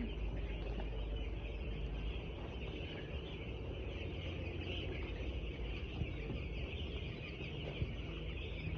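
A large flock of ten-day-old chicks cheeping together in a steady, dense chatter, with a low rumble underneath.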